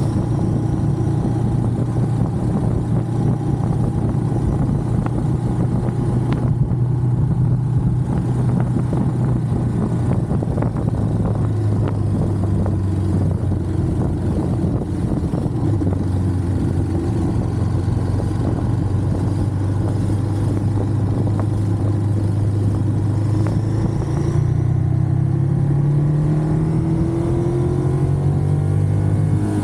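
Ducati Monster's L-twin engine running on the move at a steady pitch, then revving up over the last few seconds as the bike accelerates.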